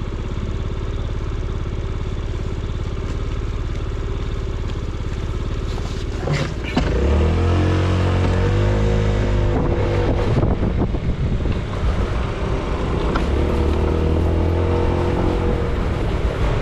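Small motorbike engine running at idle, then a couple of clicks and the engine revving up louder, its pitch rising and falling, as it pulls away about seven seconds in.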